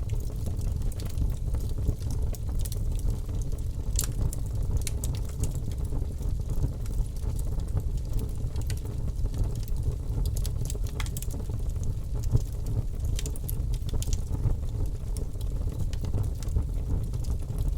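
Logs burning in a fireplace: a steady low rumble of flames with scattered, irregular sharp crackles and pops.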